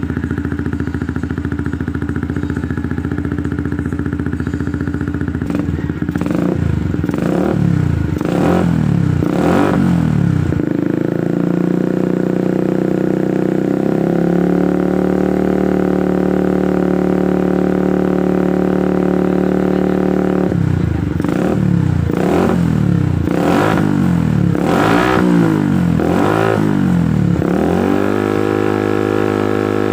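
Motorcycle running through a newly fitted aftermarket WRX exhaust: a steady idle broken twice by runs of quick throttle blips, the revs rising and falling sharply several times in a row.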